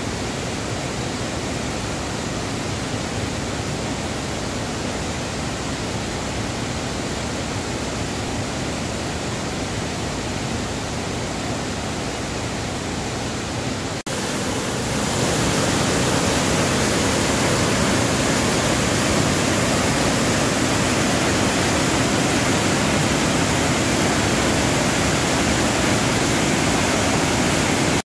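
Steady rush of water from a waterfall swollen by heavy rain. It breaks off abruptly about halfway through and comes back louder.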